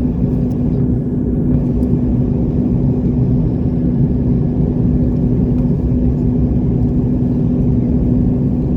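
Airliner engines running steadily during the climb after takeoff, heard from inside the cabin as an even, loud drone with a constant low hum.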